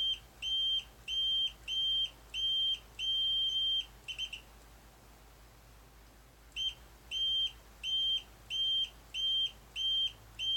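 Multimeter continuity beeper giving short, steady, high-pitched beeps about twice a second as the probes are touched across capacitor C59 on a Commodore 64C board. There is a run of about seven beeps, the last one longer, then a pause of about two seconds, then another run of about eight. The capacitor keeps giving the beep, which is taken as a sign that it is working.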